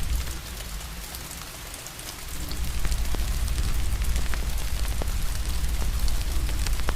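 Steady rain with a fire crackling, sharp scattered pops over an even hiss. A low rumble under it eases off about half a second in and returns just after two seconds.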